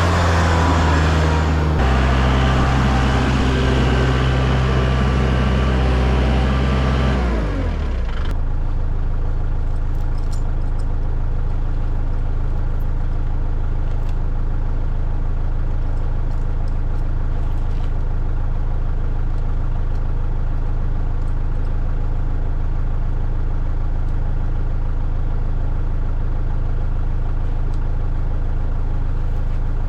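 An engine running at raised speed, stepping down slightly about two seconds in, then winding down at about seven seconds to a steady idle.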